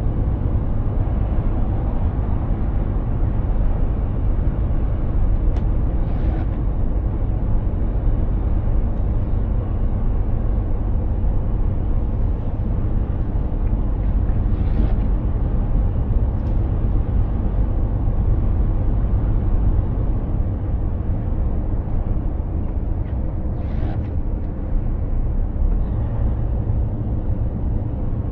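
Mercedes-Benz Actros 2763 truck driving along steadily: a constant low engine drone with road and tyre noise over it.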